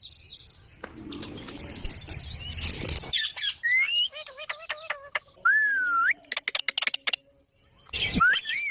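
A ringneck parrot chirping and making whistled calls that glide up in pitch, mixed with quick clicks, after about three seconds of rough noise; one loud rising call comes near the end.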